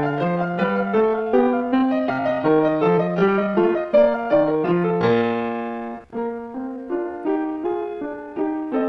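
Background piano music: a flowing run of notes, a chord held about five seconds in, a brief break, then the melody picks up again.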